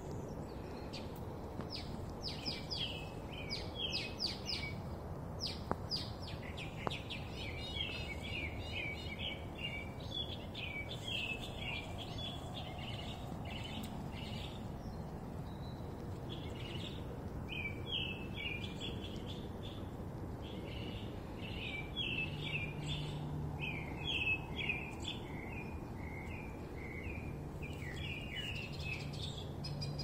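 Several songbirds chirping and singing in quick runs of short notes, almost without pause, over a low background rumble. A steady low hum comes in about two-thirds of the way through and again near the end.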